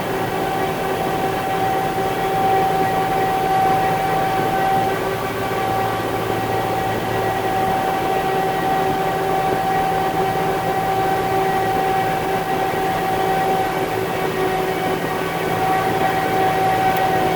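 Concrete mixer truck's diesel engine running steadily, with a constant high whine over the engine noise that dips slightly in pitch near the end.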